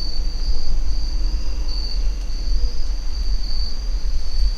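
Steady high-pitched chorus of insects in the woods, swelling and fading slightly, over a constant low rumble.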